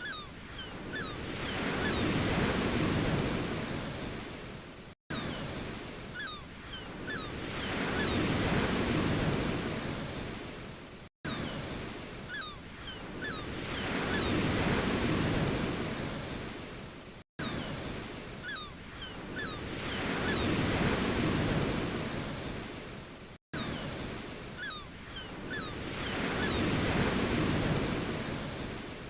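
Ocean waves breaking and washing in, each wave swelling to a peak and fading away about every six seconds. A brief silent dropout falls between waves, as in a short recording looped.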